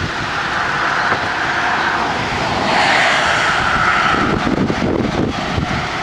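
A car passing on the road: a rushing tyre and engine noise that swells to its loudest about three seconds in and then fades.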